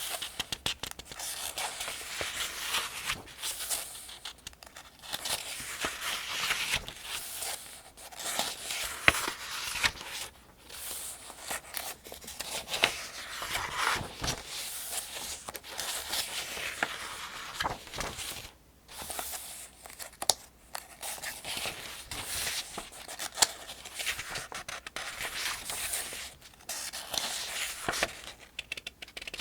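Paper pages of the 2025 Farmers' Almanac being turned one after another at a steady pace: repeated rustling swishes and crisp paper ticks, with a brief pause about two-thirds of the way through.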